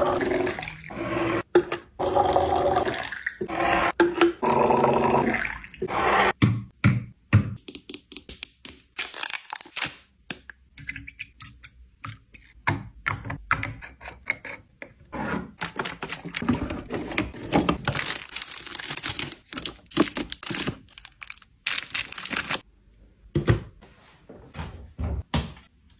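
Plastic and glass containers, lids and food items clicking, tapping and thunking as they are set down and slid into place in a refrigerator, in many short separate knocks. The first few seconds carry a steady pitched sound, like liquid being poured into a container.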